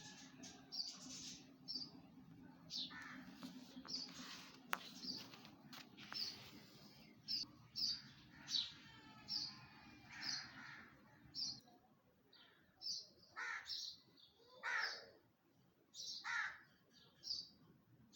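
Several birds calling from a tree: short, high chirps repeating about once a second, mixed with lower, harsher calls. A faint low hum lies underneath and stops about two thirds of the way through.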